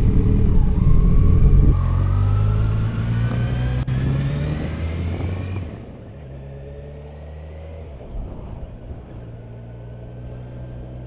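Vehicle engine pulling away and accelerating, its pitch rising steadily, then about six seconds in it drops suddenly to a quieter, steady drone.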